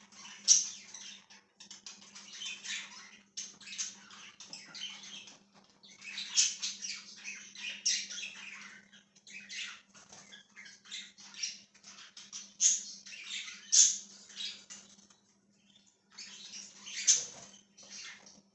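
A flock of pet budgerigars chirping and chattering in many short, high-pitched calls, briefly dropping off about three-quarters of the way through, over a faint steady low hum.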